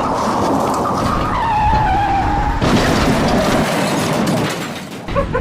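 A stuck vehicle's tires spinning and whining as it tries to pull free, with a whine that sags in pitch partway through.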